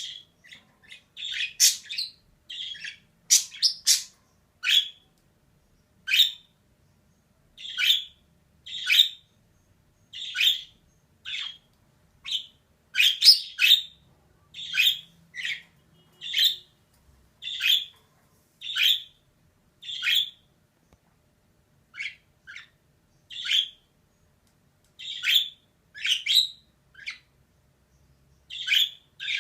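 Female budgerigar giving short, sharp chirping calls, one or two at a time, about once a second with brief pauses between.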